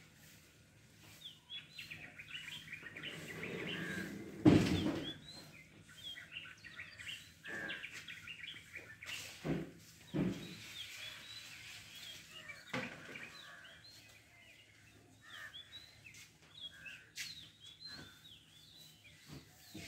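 Small birds chirping and twittering throughout. A sudden loud thud comes about four and a half seconds in, and a few softer knocks follow around ten and thirteen seconds.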